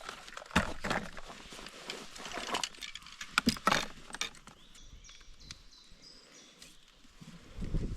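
A series of sharp knocks and clatter, loudest about three and a half seconds in, then faint high bird chirps over the quiet outdoors, with a low rumble near the end.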